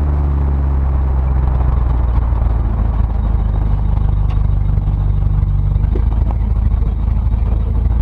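A 1977 Ford Ranchero GT's 5.8-litre 351 Windsor V8 running at a steady speed on the road, a constant low drone with road noise.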